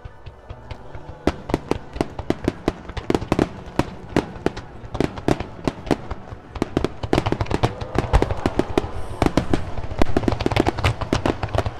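Fireworks going off in rapid succession: sharp bangs and crackles begin about a second in and come thicker and louder in the second half. Music plays faintly underneath at the start.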